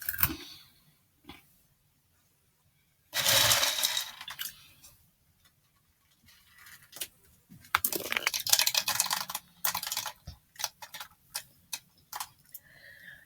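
Crunchy Kix cereal being eaten near the microphone: irregular crunching crackles and sharp clicks, with one loud noisy burst a few seconds in.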